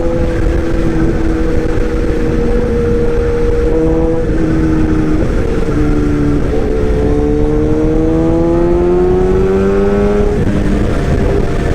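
Excavator's diesel engine running with a pitched drone over a low rumble; the pitch holds steady, dips about halfway through, then rises slowly as the engine takes up and sheds load.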